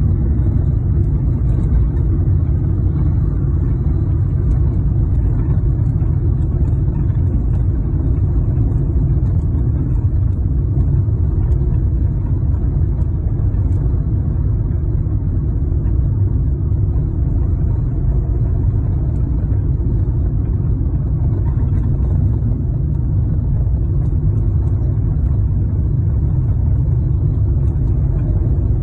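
Steady low rumble of a car driving, road and engine noise without a break.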